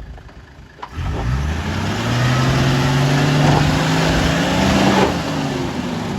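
A four-wheel drive's engine revs up suddenly about a second in and is held high and loud under load, its pitch creeping upward, then eases off about a second before the end.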